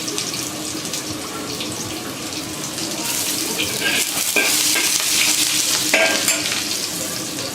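Ginger sizzling in hot cooking oil in a wok as it is stirred, with a few clicks of a utensil against the wok. The sizzle grows louder about three seconds in and eases off near the end.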